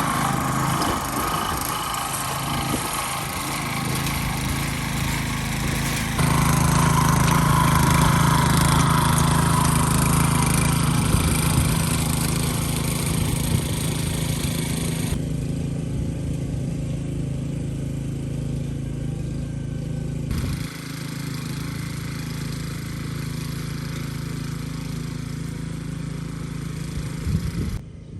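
A farm machine's engine running steadily under load, with sudden jumps in level and tone about 6, 15 and 21 seconds in.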